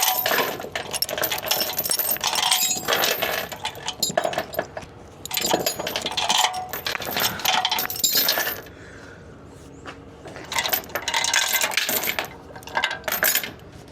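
Steel tie-down chains on a flatbed being pulled loose and handled, rattling and clanking in three long bursts of metal-on-metal clatter with short pauses between.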